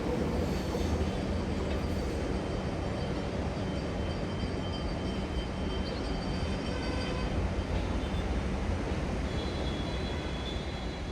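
A train running on the tracks: a steady low rumble and rolling noise that slowly fades towards the end.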